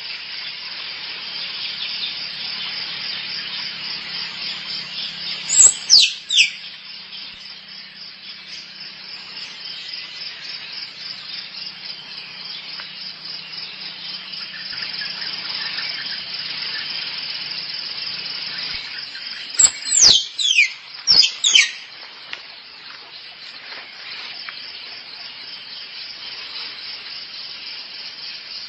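Squirrel calls used as a lure: loud, high squeaks sweeping sharply downward, a pair about six seconds in and a quick series of four or five around twenty seconds, over a steady fast high-pitched trill.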